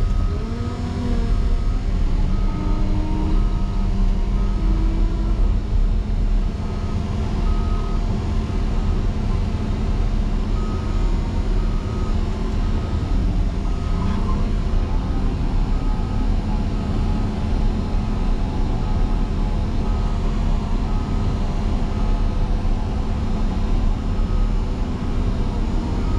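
Motor grader's diesel engine running steadily under load while plowing deep snow, with its backup alarm beeping in several runs as the machine reverses.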